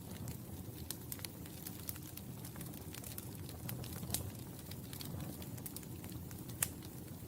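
Wood fire crackling: a steady low rumble of burning with frequent small pops and snaps, the sharpest pop near the end.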